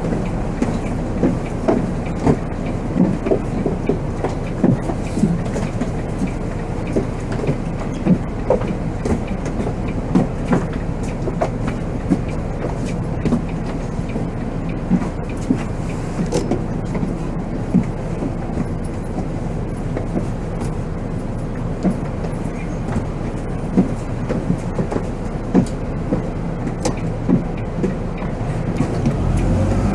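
Volvo B7R coach on the move, heard from the driver's cab: a steady drone from its six-cylinder diesel engine and the road, with frequent short rattles and knocks from the body and fittings. The low drone swells near the end.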